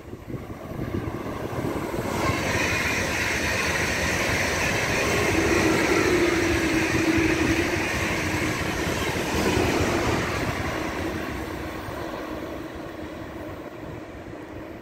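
Electric passenger train passing on the main line: the rolling of wheels on the rails builds over a couple of seconds, stays loud for several seconds, then slowly fades as the train moves away.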